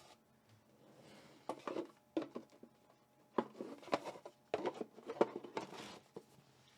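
Foil booster packs and a cardboard box being handled: a scattered run of light crinkles and taps.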